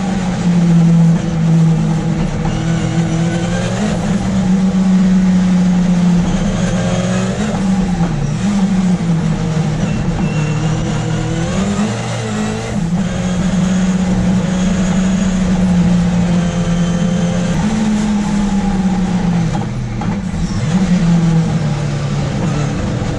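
Ford Escort RS Cosworth race car's turbocharged engine on track, heard from inside the car: held at high revs most of the time, with the pitch dropping and climbing again three or four times as the driver shifts and brakes for corners.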